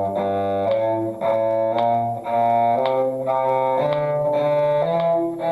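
Bowed strings playing an F major one-octave scale in eighth notes with slurred bowing, stepping upward with the notes changing about twice a second.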